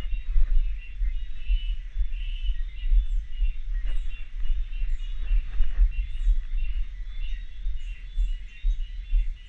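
Cicadas calling steadily in rainforest, with short high bird chirps scattered over them. A low rumble on the microphone and a few soft knocks sit beneath.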